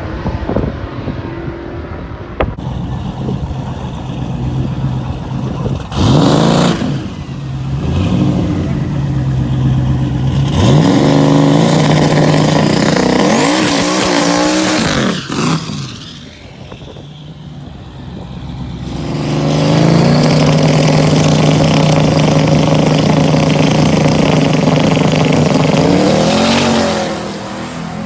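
Drag-racing truck engines revving up and holding steady high revs for several seconds, twice, with a brief drop in revs between the two holds.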